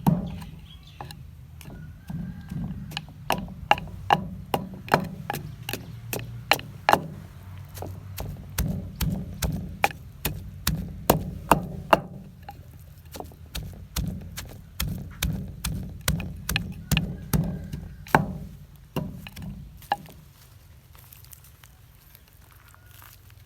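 Repeated hard knocks of papaya salad being made by hand, coming about two a second in uneven runs. They stop about 19 seconds in.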